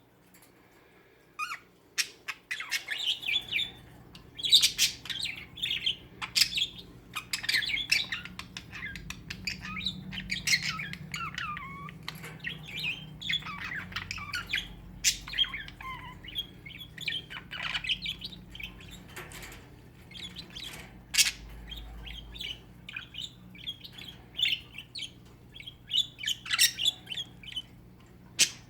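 Budgies chattering and squawking in quick, busy chirps, with a few sharp clicks mixed in.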